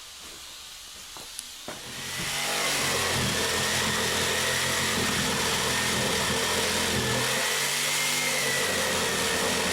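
A power tool starts about two seconds in and runs steadily with a high whine.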